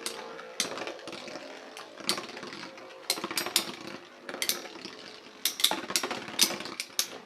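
Metal Fusion Beyblade spinning tops whirring in a battle stadium, with many irregular sharp clicks as their metal wheels strike each other and the stadium wall.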